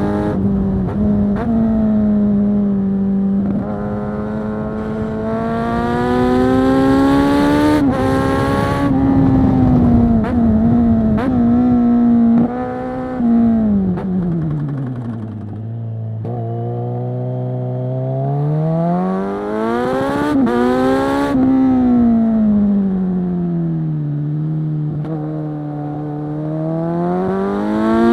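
2022 Kawasaki Z900 SE inline-four through a Zard full-system exhaust, loud, revving up and down through the gears under riding load. The revs drop low about halfway, then climb again.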